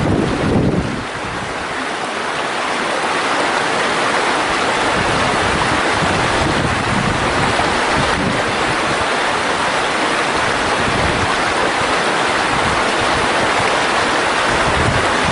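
Mountain stream water rushing steadily over rocks, a loud even rush. Wind buffets the microphone in the first second and again in brief gusts.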